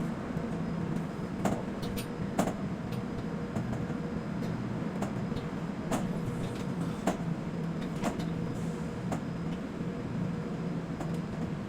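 Quay container crane machinery running with a steady hum, with about a dozen sharp clicks and knocks at irregular intervals.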